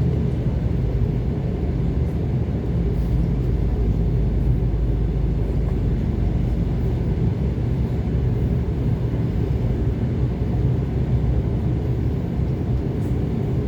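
ET2 electric multiple unit running along the track, a steady low rumble.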